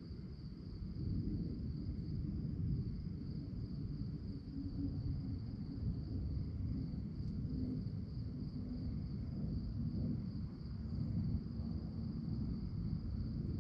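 Crickets chirping in a continuous, high, faintly pulsing trill, over a louder low rumble.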